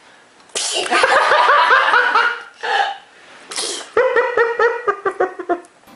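Two bouts of high-pitched, rapid laughter, the first starting with a sudden noisy burst about half a second in; a short sharp noisy burst comes between them, about three and a half seconds in.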